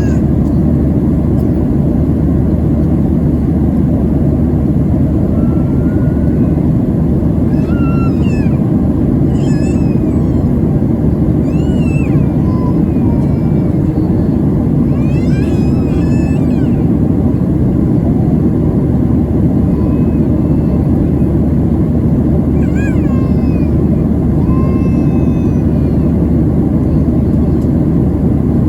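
Steady cabin roar of a Boeing 737-700 at cruise: engine and airflow noise. A few faint, short, high calls that rise and fall come through it now and then.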